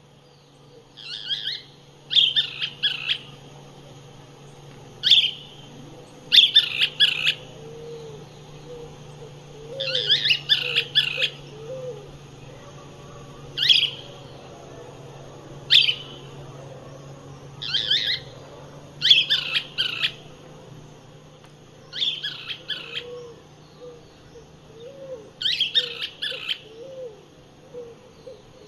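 Wild birds calling: repeated high, chattering calls every one to three seconds, a few of them single sharp notes, with faint low hooting notes underneath.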